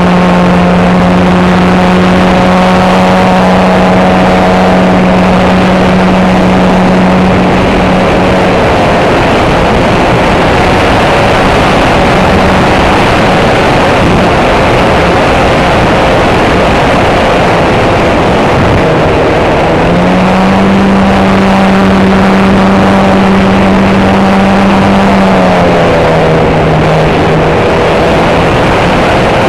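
Heavy wind buffeting the microphone, with the RC Stinson SR-10 model plane's engine droning steadily underneath. The drone fades about a third of the way in, comes back slightly higher around two-thirds in, and drops in pitch near the end as the plane's distance and throttle change.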